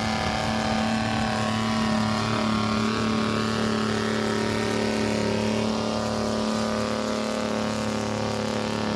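Antique farm tractor engine running hard and steady at high revs, as in pulling a weighted sled in a tractor pull.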